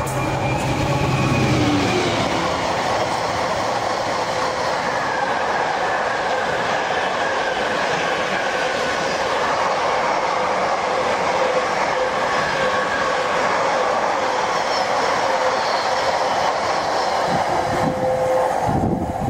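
Class 66 diesel locomotive passing at speed at the head of a container freight train. Its engine's low drone is heard for the first second or so, then a long, steady rumble and clatter of the container wagons running over the rails.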